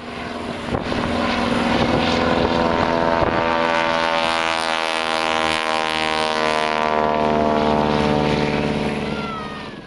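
Propeller aircraft engine droning steadily in flight, fading in at the start and out near the end.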